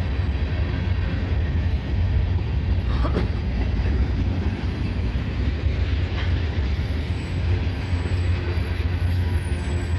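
Freight train cars rolling past, a steady low rumble of steel wheels on rail, with a couple of faint brief squeals about three and six seconds in.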